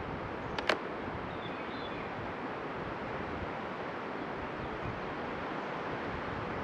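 Steady outdoor noise, like wind on the microphone, with one sharp click a little under a second in.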